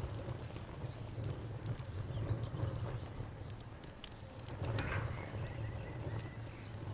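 Campfire crackling, with scattered sharp pops, over a constant low rumble. Crickets chirp steadily in a high, evenly pulsed trill, and frogs call.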